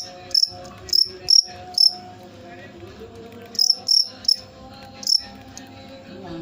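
Cricket chirping: short, loud, high-pitched chirps given in irregular groups of two to four, with pauses of a second or so between groups.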